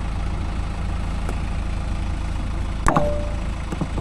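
JCB 3DX backhoe loader's diesel engine idling steadily, with one sharp metallic clank that rings briefly, about three seconds in.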